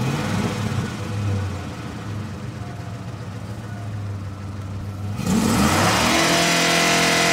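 A 2006 Ford F-150's engine and exhaust, briefly revved and settling to a low, steady idle. About five seconds in it is revved up and held at high revs, then the sound cuts off suddenly.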